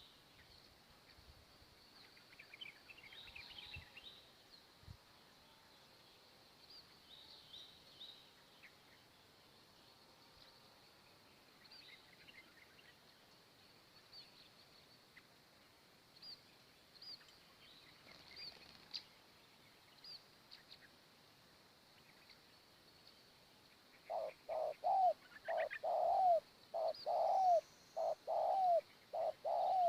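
Faint high chirps of small birds, then, from near the end, a spotted dove cooing: a run of short, loud, arched coos repeated about twice a second.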